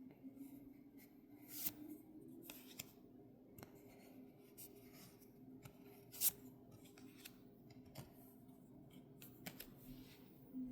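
Scissors snipping while packaging is handled: a scattering of quiet sharp clicks and snips, one louder click just past the middle.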